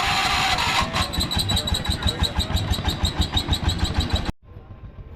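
An engine, likely an antique tractor's, starting and running. A loud rushing hiss comes first, then an even running beat of about six pulses a second that cuts off abruptly about four seconds in.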